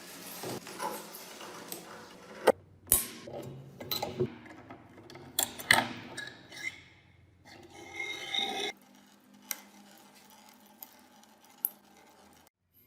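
Hand restoration work on rusty metal parts: irregular rubbing and rasping strokes broken by a few sharp clinks and knocks, growing quieter in the last few seconds.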